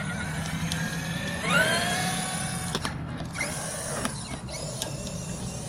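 Traxxas X-Maxx 8S RC truck's brushless electric motor whining as the truck accelerates hard: the pitch rises sharply about a second and a half in, levels off and fades out, then comes a shorter, fainter whine.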